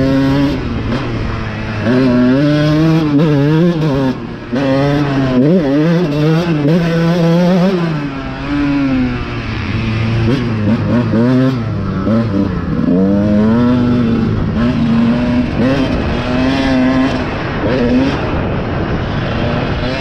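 Dirt bike engine being ridden hard on a motocross track, its pitch repeatedly climbing under throttle and dropping off as the rider shifts and backs off, with a brief lull about four and a half seconds in.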